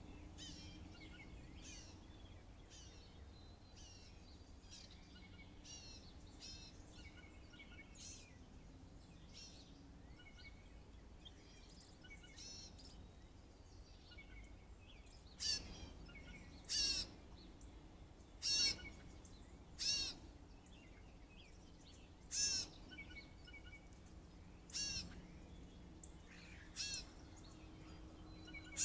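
Songbirds chirping and calling. About halfway through, one bird starts a louder call made of quick falling notes, repeated every couple of seconds.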